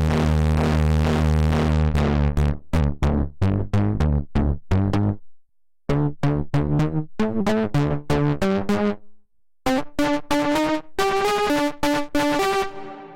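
Waldorf Pulse 2 analog monosynth playing a preset: a held, buzzy note cuts off about two seconds in, then one note at a time in short, plucked staccato phrases with brief pauses between them. The notes grow a little longer near the end.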